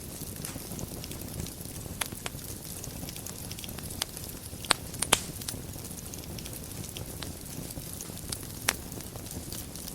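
Wood fire burning in a fireplace: a steady low hiss and rumble of flames with scattered sharp crackles and pops, two louder pops close together about halfway through.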